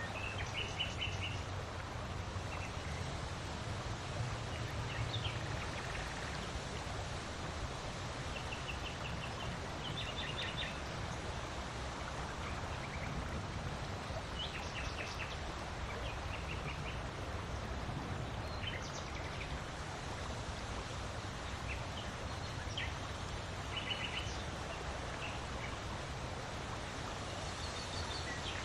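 Steady wind blowing with a low rumble, while small birds chirp on and off in short, quick runs of high notes.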